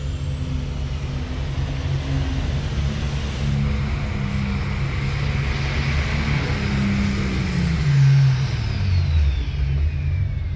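Super stock diesel pulling tractor engine running hard under load, with a high turbo whine over it. About eight seconds in, the engine note drops and the turbo whine falls away in pitch as the engine winds down.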